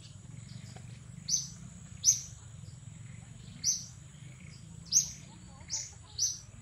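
A bird chirping: six short, sharp, high calls, each dropping in pitch, coming irregularly about a second apart over a steady high-pitched whine.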